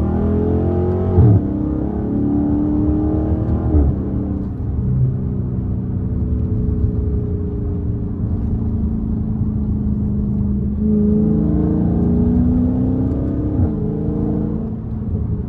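Dodge Charger Scat Pack's straight-piped 6.4-litre HEMI V8 pulling under acceleration, heard from inside the car. The exhaust note climbs and drops sharply twice in the first four seconds as the car shifts up, runs steady through the middle, then climbs again and drops near the end.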